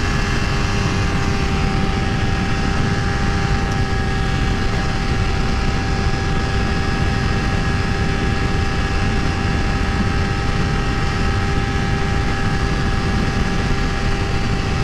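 Honda CBR250RR engine held at full throttle, running at a steady high pitch that neither rises nor falls, under a heavy, even rushing noise. The bike is at its top speed and will not pull any further.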